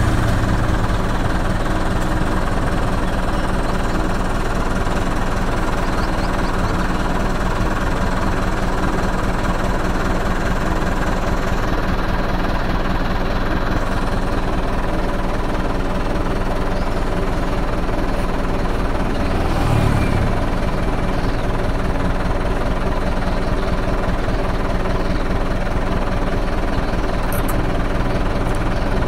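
An engine running steadily at idle, with a fine rapid pulsing throughout and one brief low swell about twenty seconds in.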